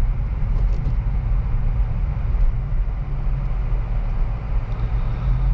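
2023 Acura Integra A-Spec's 1.5-litre turbo four-cylinder running on the move, a steady low engine drone mixed with road noise heard from inside the car. The engine note shifts a little partway through.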